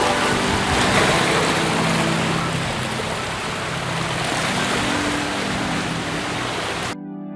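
Steady rushing water noise with soft background music underneath. The water noise cuts off abruptly near the end, leaving only the music.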